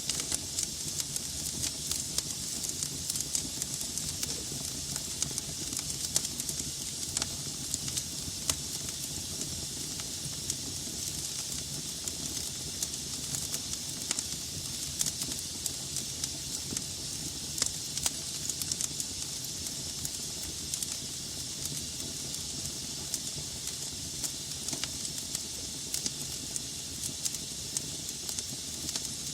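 Wood logs burning in a fireplace: a steady hiss with frequent sharp crackles and pops scattered throughout.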